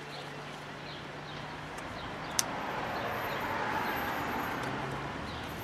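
A single sharp metallic snap about two and a half seconds in: a stainless steel Oetiker hose clamp breaking as it is worked with diagonal cutters. Behind it, a vehicle passing by swells up and fades away.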